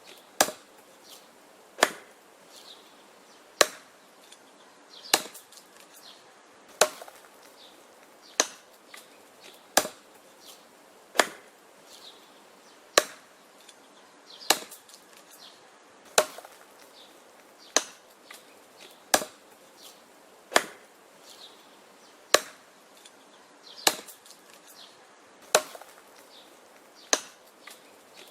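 Wood being chopped by hand: a sharp chop about every second and a half, steady and rhythmic, with fainter knocks in between.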